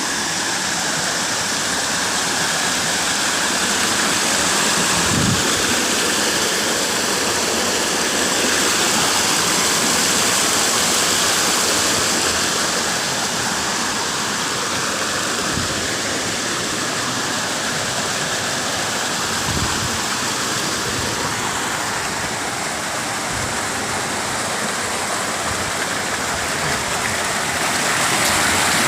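Steady rush of fast-flowing water, with a few soft low thumps.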